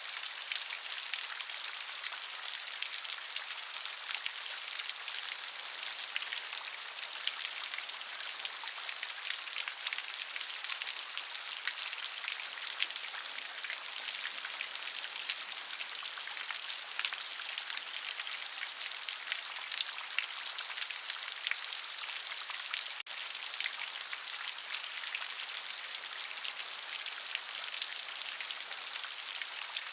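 Steady rain falling, a constant hiss thick with the fine ticks of individual drops, with no thunder. It breaks off for an instant about two-thirds of the way through.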